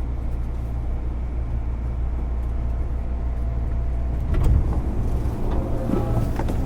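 Standing 205-series electric train at a station stop with its doors open: a steady low hum from the car's onboard equipment, with a single knock about four and a half seconds in.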